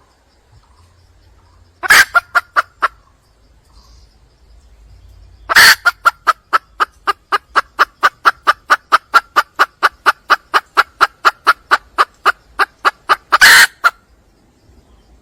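Junglefowl hen calling: a loud squawk with a short trail of clucks, then another squawk leading into a long, even run of clucks at about four a second, ending in a final loud squawk near the end.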